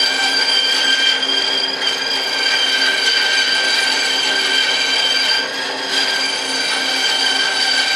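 Bandsaw running with a steady high whine, dipping briefly twice.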